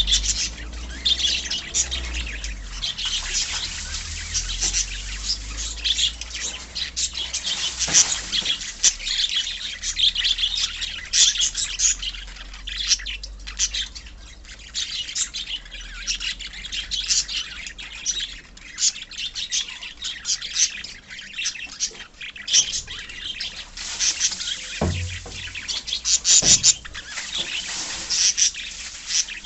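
A colony of small pet parrots, lovebirds and budgies, chirping and calling all at once in a dense, rapid, overlapping chatter of high chirps. Two dull knocks come near the end.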